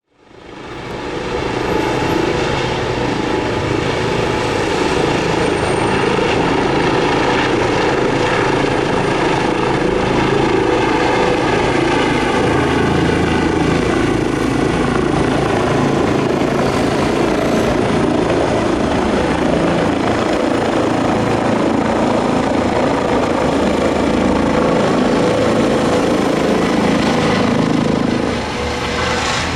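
Emergency medical helicopter running at close range during take-off, a steady turbine whine over the thudding of the rotor blades. It becomes a little quieter near the end.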